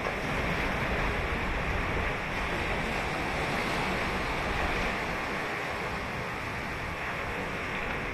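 Ocean surf breaking and washing up a sandy beach, a continuous rush of water that swells as a wave breaks near the start and eases off slowly after about five seconds. Some wind noise on the microphone.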